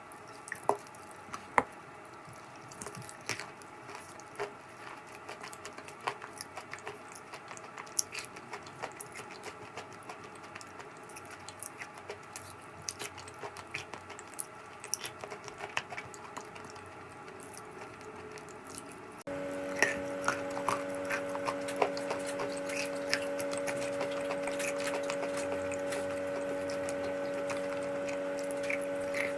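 Crunchy edible clay being bitten and chewed close to the microphone: irregular sharp crunches and crumbling clicks. About two-thirds in, a steady hum joins underneath.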